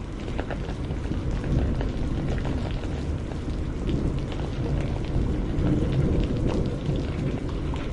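Steady rain: a dense hiss scattered with many separate drop ticks, over a deep, even rumble.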